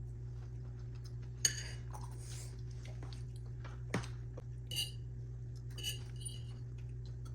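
Tableware clinking as a toddler feeds themself: a few short separate clinks and knocks of utensils on dishes, over a steady low hum.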